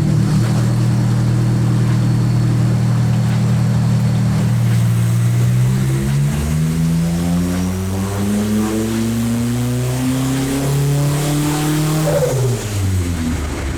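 Proton Satria's turbocharged 4G93 MIVEC four-cylinder engine on a chassis dyno, held at a steady speed, then revving up steadily under load for about seven seconds in a dyno pull. Near the end it drops off sharply as the throttle is released.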